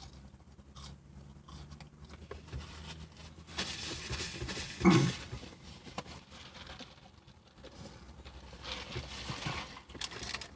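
Paper fast-food packaging rustling and crinkling as food is handled, with a brief short voice sound about five seconds in.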